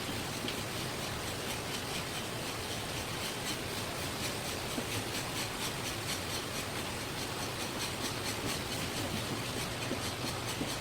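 A steady noisy hiss with faint, rapid, even ticking high up.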